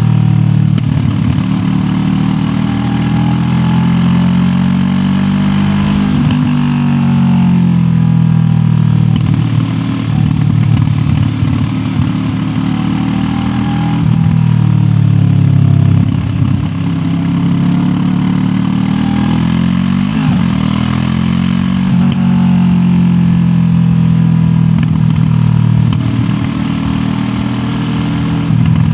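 QJ Motor SRT 700X parallel-twin motorcycle engine running on the road, with its pitch repeatedly climbing and dropping back several times as the bike accelerates and eases off.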